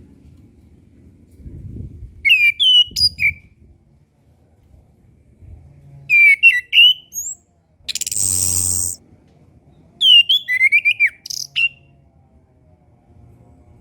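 Chestnut-capped thrush singing short phrases of quick, high warbled and whistled notes, one about every four seconds. Between two phrases comes a loud harsh rasping burst about a second long.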